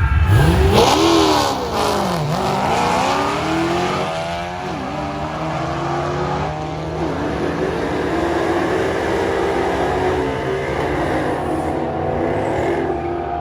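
Drag-racing car engine revving and accelerating, its pitch climbing and dropping several times, with a low rumble underneath.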